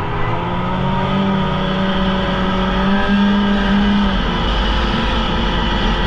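Polaris Indy snowmobile engine running steadily under way, its pitch holding fairly even, with a strong low hum that drops away about four seconds in.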